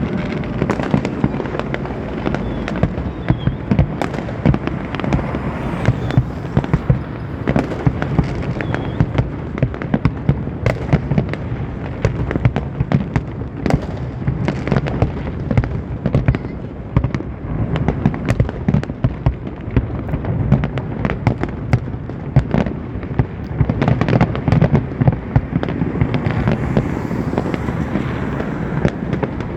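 Fireworks display: a dense, continuous barrage of bangs and crackles, many bursts every second.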